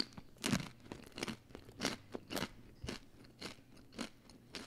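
Close-miked chewing of a crunchy baked cheese ring snack (Rosquilla Caleña). It makes a dry crunch about twice a second.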